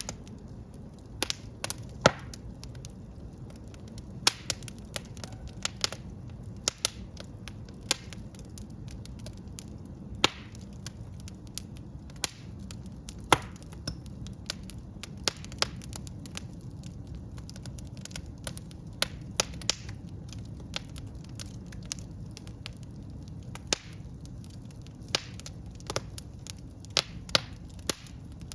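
Wood fire burning in a fireplace: a steady low rumble of the flames with sharp, irregular crackles and pops of the burning logs, several a second, a few of them much louder.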